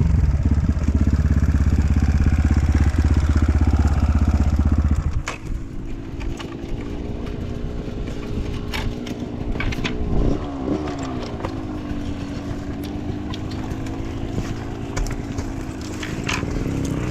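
Dirt bike engine running hard under throttle, then dropping to idle about five seconds in. It idles steadily with a short rev about ten seconds in and another near the end, and a few sharp knocks or clicks come from the bike or trail in between.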